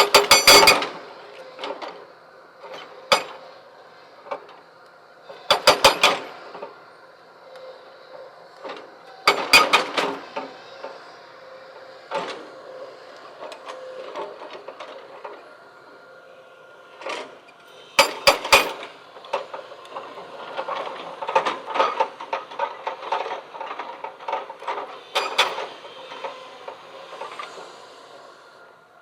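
Hard clattering knocks in bursts, as of stones being struck and tumbling against each other, over a faint steady hum.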